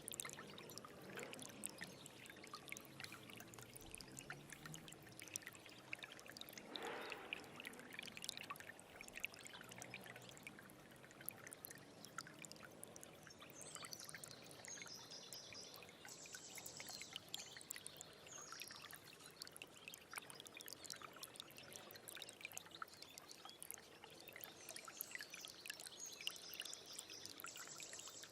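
Small stream trickling and burbling over stones, a steady faint wash of running water dotted with small splashes.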